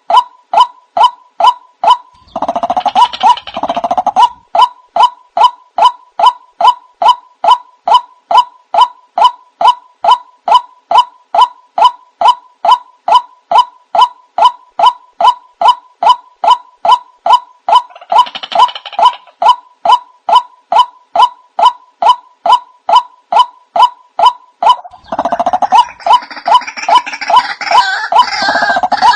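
Recorded lure call of the white-breasted waterhen (ruak-ruak): a steady run of short pitched notes, about two or three a second. Three times, near the start, in the middle and near the end, it breaks into a denser, harsher burst of calling.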